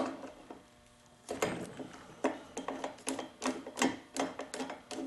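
A hand tool clicks as it backs a cylinder screw out of a two-stroke leaf blower: one sharp click at the start, then after about a second a run of short clicks, two or three a second.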